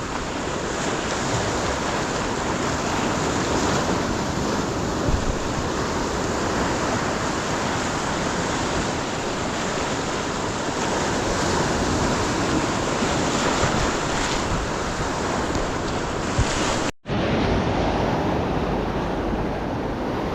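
Ocean surf washing onto the beach, a steady rushing noise, with wind buffeting the microphone. The sound cuts out for an instant near the end.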